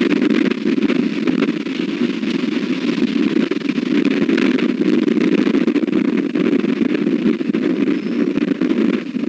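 Strong wind buffeting the nest camera's microphone: a steady, loud rumbling rush with crackling gusts.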